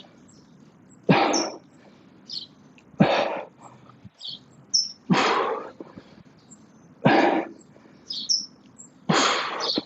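A man breathing out hard, about once every two seconds, in time with his exercise reps under effort. Birds chirp faintly between the breaths.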